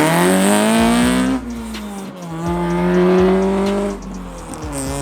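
Honda Civic Type R's K20 four-cylinder engine accelerating hard, its note climbing steadily. About a second and a half in it drops with an upshift and climbs again, then falls to a lower steady note near the end as the throttle comes off.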